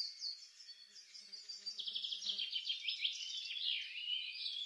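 Birds chirping and trilling in quick, high, repeated chirps, fairly faint, growing a little louder about a second and a half in.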